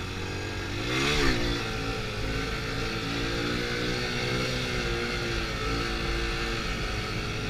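Honda Pop's small single-cylinder engine revs up about a second in, then holds steady, slightly wavering revs while the bike is ridden on its back wheel in a wheelie.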